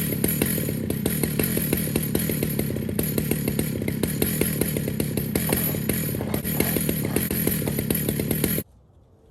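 Two-stroke chainsaw running steadily at high speed, with a fast, even engine pulse. The sound cuts off abruptly near the end.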